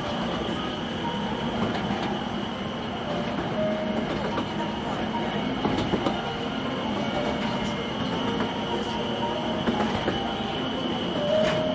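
Narrow-gauge forest railway train running along the track, heard from the passenger car: steady wheel-and-rail running noise with a high wheel squeal and scattered clicks.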